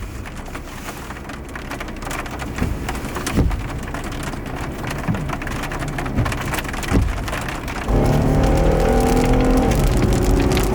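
Rain pattering on a car's roof and windshield, with a few louder knocks among the drops. About 8 seconds in, the car's engine comes up loud and holds a steady note as the vehicle drives off.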